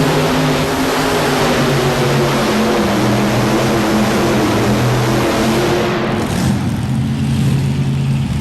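Modified pulling tractor's engines running hard at full power under load during a pull: a loud, steady drone. About six seconds in the rushing high end thins out and a lower engine note carries on.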